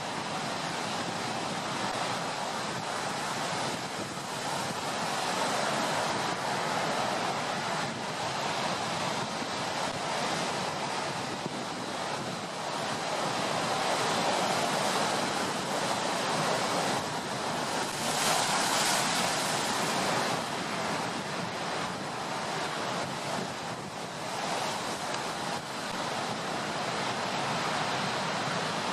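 Stormy sea: heavy surf continuously surging and breaking, with wind. The waves swell and ease every few seconds, and the largest one breaks about 18 seconds in.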